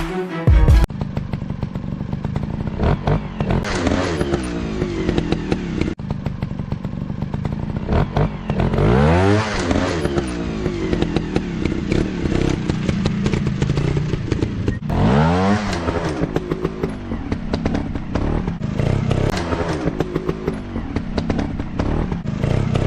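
Dirt bike engine running with rapid popping pulses, revved up and back down twice, about nine and fifteen seconds in.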